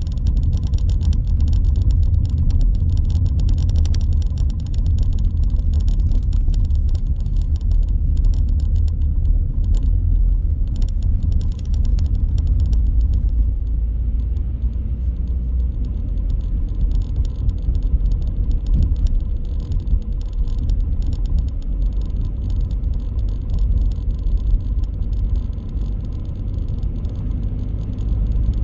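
Car driving on city streets: a steady low rumble of engine and road noise, with a light crackle over roughly the first half that then fades.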